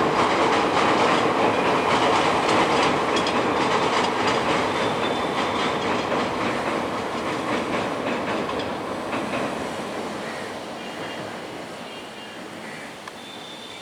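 Passing train, its wheels clattering rhythmically over the rail joints with a steady rumble, the sound fading steadily over the second half as the train moves away.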